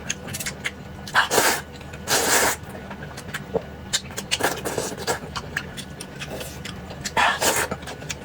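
A person slurping corn noodles: three loud, noisy slurps, about a second in, two seconds in and near the end, with small chewing and mouth clicks between them.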